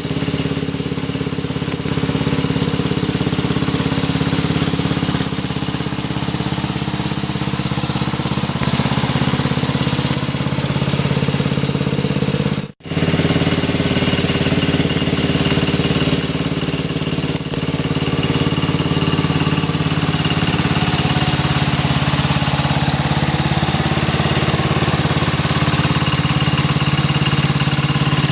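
A mini tractor's small engine running steadily at a constant speed. The sound cuts out for a moment about halfway through, then carries on the same.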